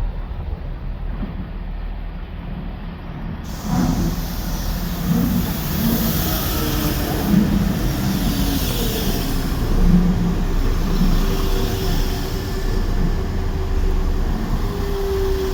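Train in a station: a steady low rumble, which changes abruptly about three and a half seconds in to a louder, fuller sound with hiss, and a few steady tones near the end.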